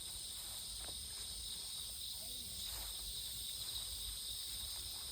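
Insects singing in a steady, high-pitched chorus, with a low rumble underneath.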